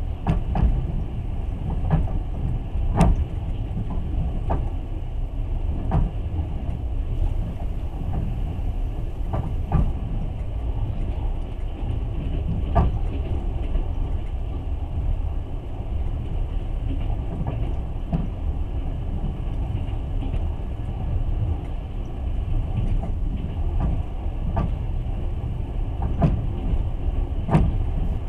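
Passenger train carriage running on the rails, heard from inside: a steady low rumble with scattered sharp clicks and knocks from the wheels and running gear, about one to three seconds apart.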